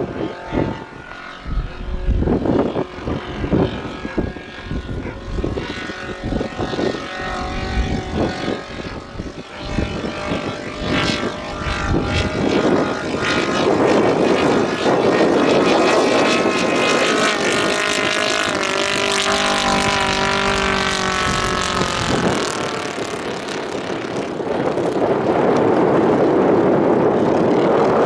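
Radio-controlled scale model aircraft's propeller engine running in flight. The sound is uneven at first with irregular knocks, then turns into a steady, louder engine note about halfway through, and swells again near the end.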